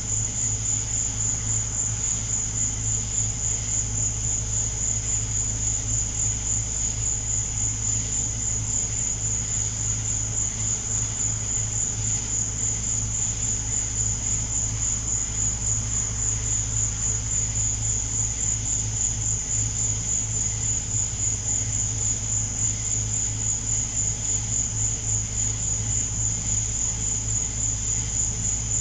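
Night insects calling in a steady, high-pitched chorus with an even pulsing beat, over a low steady hum.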